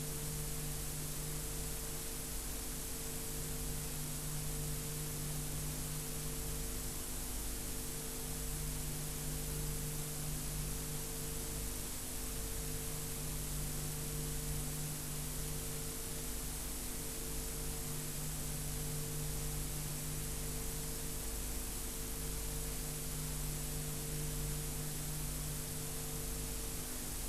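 Steady electrical hum with a few held low tones under an even hiss, unchanging throughout: recording noise with nothing else heard.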